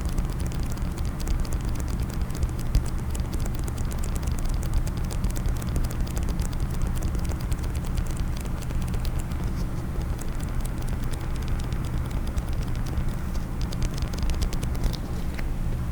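Rapid, continuous tapping on a case, many small clicks a second, over a steady low rumble.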